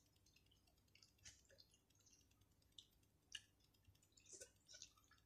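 Near silence broken by a few faint, short mouth clicks and smacks of people chewing food eaten by hand, the clearest just over three seconds in.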